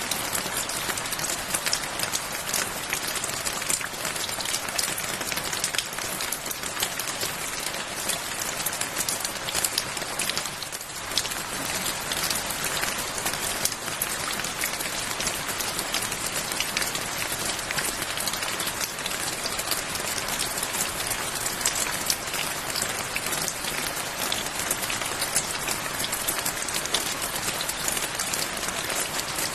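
Steady rain falling, a dense hiss with many individual drops pattering on a surface.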